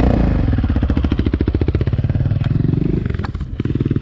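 Dirt bike engine running close to the microphone as the bike pulls away, the engine note climbing under throttle and then dropping off about three seconds in.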